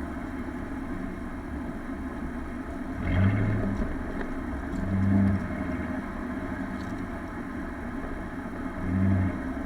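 Chrysler 5.7 Hemi V8 fitted with a K&N aftermarket air filter, idling steadily and revved briefly three times, about three seconds in, about five seconds in and near the end.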